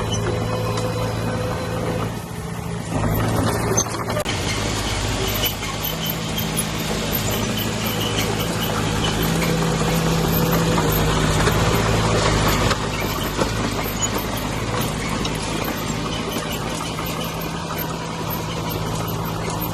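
Crawler bulldozer's diesel engine running steadily under work, with squeaks and clanks from the machine. It grows louder and harsher from about four seconds in, then eases back down about two-thirds of the way through.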